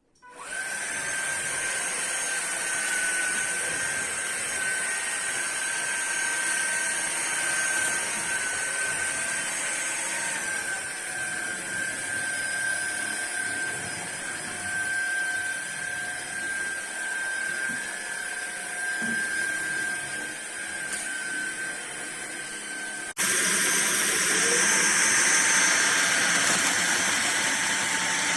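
Fieety cordless stick vacuum cleaner's motor starting up and running with a steady high whine. Its pitch drops slightly about a third of the way through, and near the end it abruptly turns louder and harsher.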